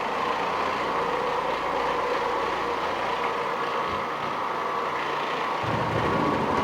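Electric carpet-cleaning machine running steadily on carpet, with a lower rumble coming in near the end.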